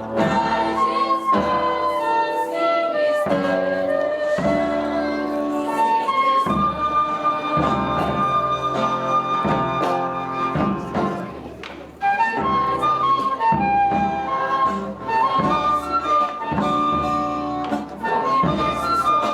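Instrumental music: a flute plays a melody over sustained accompaniment. The sound dips briefly about twelve seconds in, then the music picks up again.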